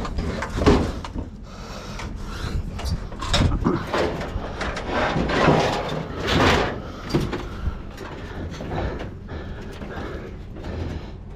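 Irregular knocks, clunks and scraping of heavy objects being handled and shifted, with the loudest clunk about six and a half seconds in.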